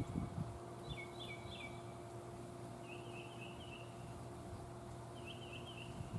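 A songbird calling: two quick groups of three falling chirps in the first two seconds, then two short fast trills, over a faint steady hum.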